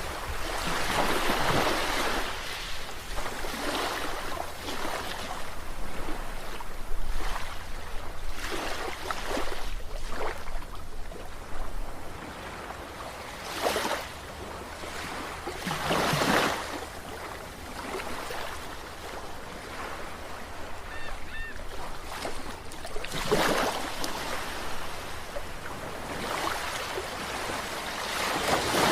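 Ocean surf: waves breaking and washing in, a rush of water that swells and falls in surges every few seconds.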